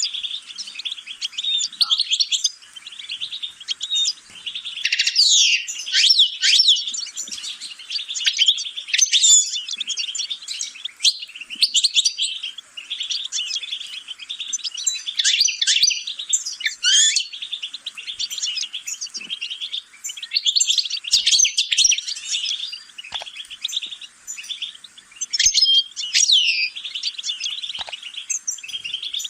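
A small songbird singing a long, fast song of rapid high notes and trills, with brief pauses between phrases.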